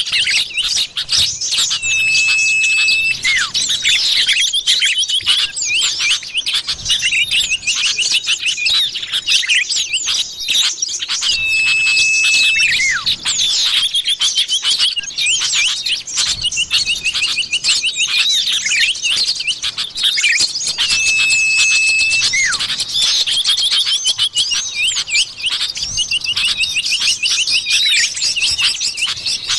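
Common iora (cipoh) calls played as a bird lure: dense, rapid chirping and twittering. A long, flat, steady whistle recurs about every nine seconds.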